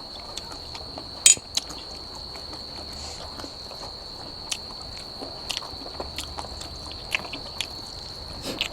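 Crickets chirring in one steady, high-pitched continuous trill, with scattered sharp clicks and taps over it, the loudest about a second in.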